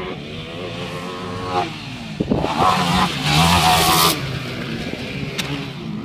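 Yamaha YFZ450 quad's single-cylinder four-stroke engine revving under hard throttle: it climbs in pitch, drops off briefly about a second and a half in, then opens up loudest around the middle before easing back.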